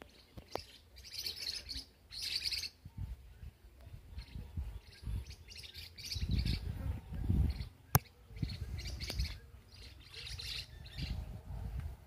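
Birds chirping in repeated high bursts, over an irregular low rumble, with one sharp click about eight seconds in.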